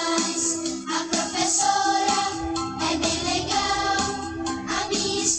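A children's song about school: voices singing over an instrumental backing with a steady beat.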